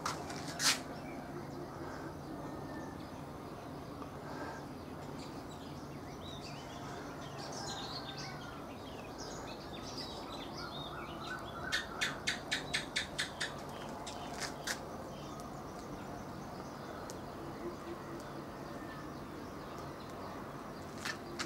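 Birds chirping over a faint steady low hum, with a quick run of about eight sharp clicks about halfway through.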